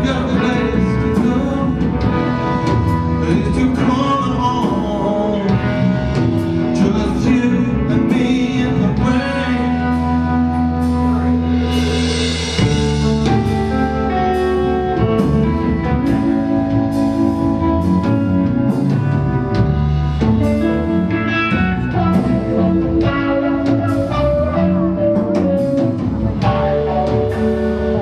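Live band playing a blues-rock song: electric guitar, bass and drum kit, with a man singing.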